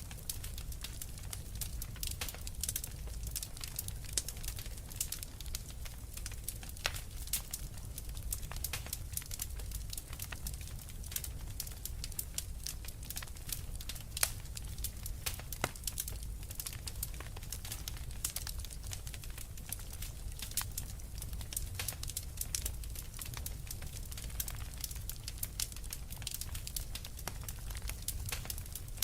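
Wood fire crackling steadily, with many small irregular pops and snaps, over a low steady rumble.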